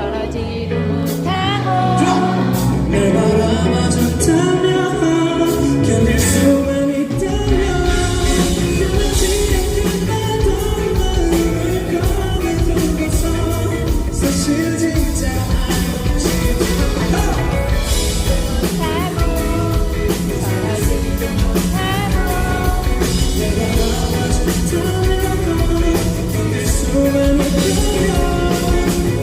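Live band performance with a vocalist singing over it; the drums and bass come in fully about seven seconds in.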